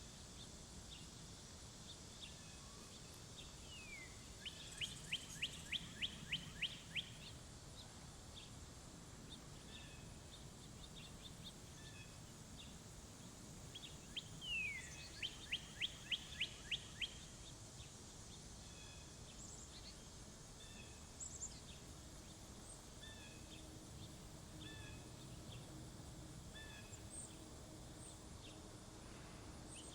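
A songbird sings twice, each song an opening downward slur followed by a quick run of about eight notes, with soft scattered chips from birds in between.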